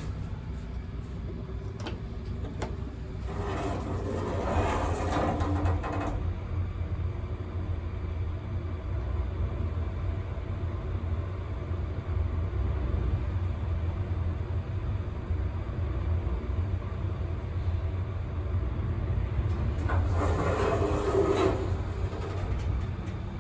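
Hitachi BuilAce Quality 80 elevator: the rusty car doors grind as they slide shut, the car then travels with a steady low hum for about fourteen seconds, and the doors grind again as they open near the end. The grinding comes from rusted, poorly kept doors.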